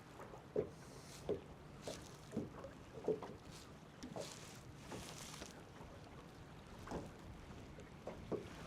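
Small waves slapping against the hull of a small fishing boat: irregular soft knocks about once a second, over a faint wash of wind.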